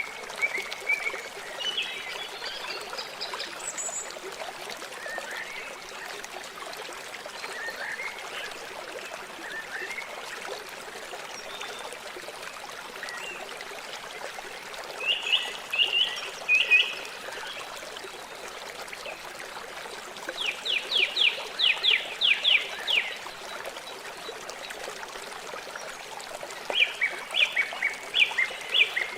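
River water flowing in a steady rush, with bird calls over it: short chirps scattered through, a quick run of about ten notes past the middle, and another burst of calls near the end.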